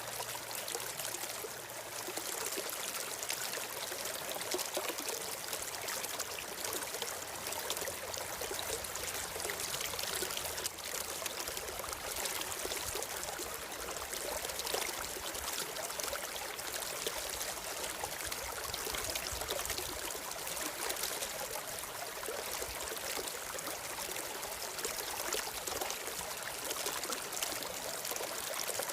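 A stream flowing steadily, with a continuous trickling, babbling rush of water.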